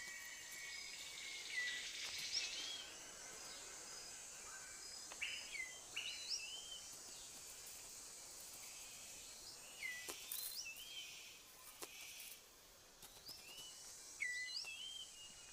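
Rainforest ambience: a steady high insect hum, with a bird giving short whistled notes that sweep up and then hook down, in small clusters every few seconds.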